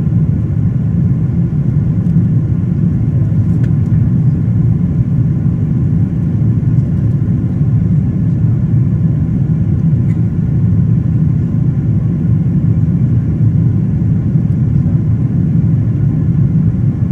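Steady low drone of a Boeing 777-200ER's engines and airflow heard inside the passenger cabin, even in level throughout.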